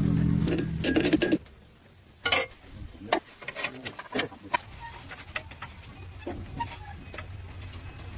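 An engine running cuts off abruptly about a second and a half in, followed by scattered light clicks and knocks.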